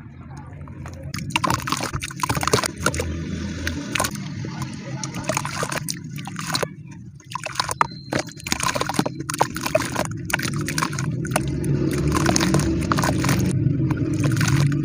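Cement being crumbled and crushed in water: a dense, gritty crackle of many small cracks with sloshing. It quietens briefly about halfway through, then picks up again.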